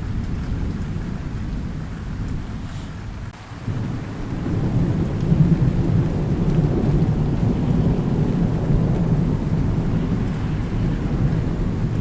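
Thunder rumbling over steady rain. The low rolling rumble fades briefly about three seconds in, then swells again and stays loud.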